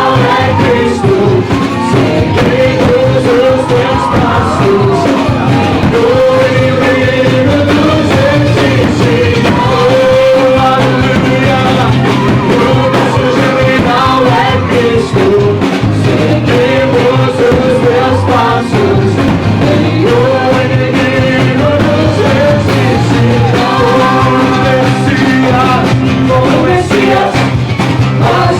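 Loud music: a group singing a worship song with band accompaniment, in steady repeating phrases.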